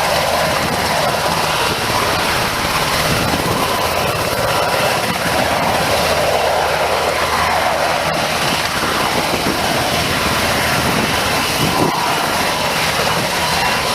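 Sikorsky S-70i Black Hawk helicopter running, its twin turboshaft engines and rotors making a loud, steady noise.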